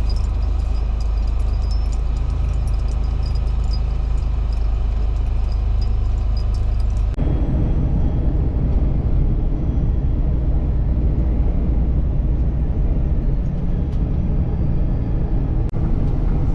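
Semi truck running, heard from inside the cab: a steady low engine drone. About seven seconds in it changes abruptly to a louder low rumble of the truck driving.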